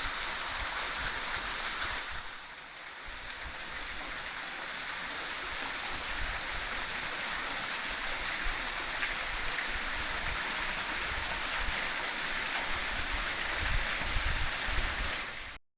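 Steady rush of flowing water from a creek and small waterfall, dipping in level about two seconds in, with some low rumbling near the end; it cuts off suddenly just before the end.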